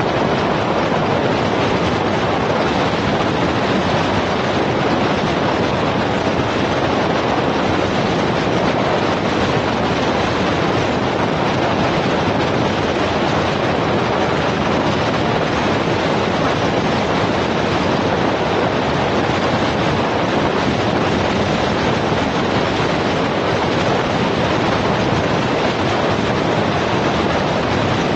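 Steady road and wind rush from a vehicle in motion, an even hiss with no engine note or single events standing out.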